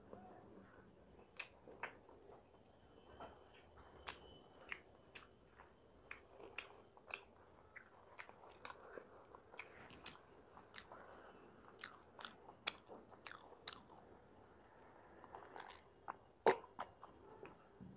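Mouth sounds of chewing a fried snack: irregular wet smacks and crunchy clicks, sometimes several a second, with one louder click near the end.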